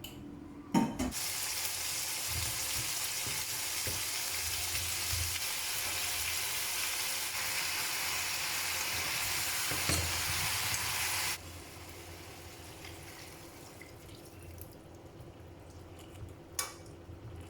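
Food sizzling in hot oil in a frying pan, starting with a sharp hit as it goes in about a second in and stopping abruptly after about ten seconds. A few light clinks of kitchenware follow near the end.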